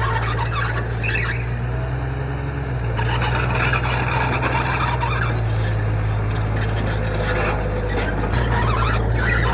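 Bulldozer working: a steady low engine drone with metallic squealing and frequent clanks, typical of crawler tracks grinding and rattling.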